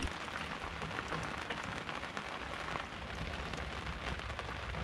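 Rain tapping on a sailboat's spray hood: many small, irregular drop ticks over a low steady rumble.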